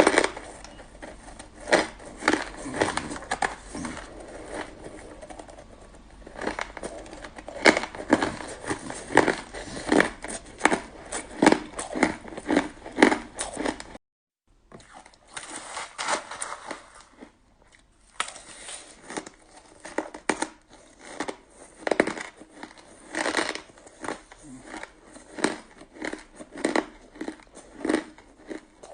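Close-up crunching of purple-flavoured shaved ice being bitten and chewed: many sharp, irregular crunches, with a brief gap of silence about halfway through.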